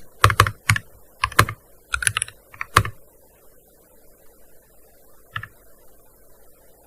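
Typing on a gaming keyboard: a short run of scattered keystrokes in the first three seconds, then a pause broken by a single keystroke about five seconds in.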